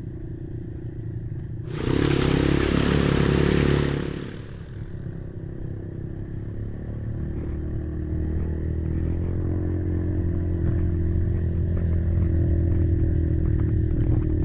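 Kymco Maxxer 300 quad's single-cylinder four-stroke engine running under way, with a louder, noisy surge lasting about two seconds near the start. After it the engine settles into a steady note that slowly grows louder, with light clattering.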